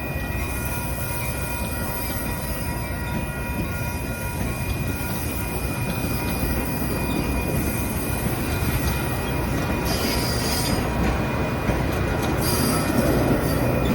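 A train running on the rails, its wheels squealing in several steady high tones over a rumble that grows louder toward the end, with short bursts of high hiss near the end.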